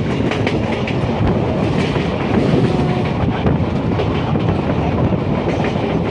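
Passenger train running along the line, heard from inside a coach at the window: a steady loud rumble with the wheels clicking and clattering over the rail joints.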